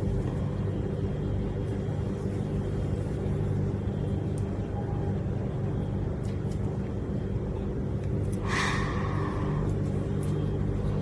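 Vehicle engine idling, a steady low hum. A short hiss-like noise comes about eight and a half seconds in.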